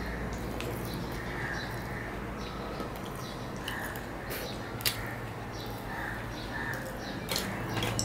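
Close-miked chewing and wet mouth smacking as a man eats luchi (puffed fried bread) with vegetable curry by hand, soft smacks coming about once a second. A sharp click sounds about five seconds in, over a steady low hum.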